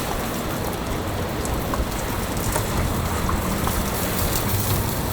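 Chicken legs sizzling as they cook, a steady rain-like hiss with scattered small pops.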